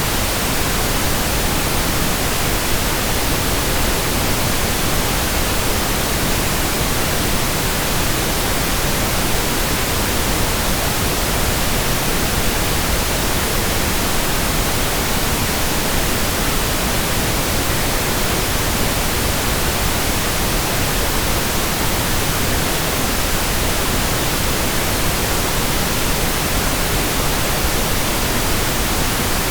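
Steady pink noise: an even, unchanging hiss, deeper and softer than white noise.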